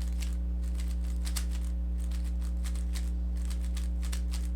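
Rubik's cube being turned quickly: a fast, irregular run of light plastic clicks as the layers are twisted through an OLL algorithm, over a steady electrical hum.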